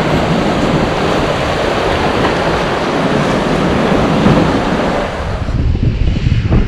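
Ocean surf washing on the shore, with wind buffeting the microphone. About five seconds in the surf thins and the gusty wind rumble is left most prominent.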